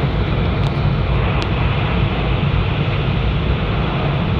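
Steady running noise inside the cabin of an E2 series Shinkansen train under way: a low rumble with an even hiss over it.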